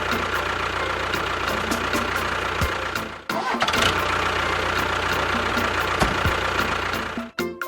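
Small motor of a DIY model machine running steadily with a hum and faint regular ticking. It briefly drops out about three seconds in, picks up again, and cuts off just before the end.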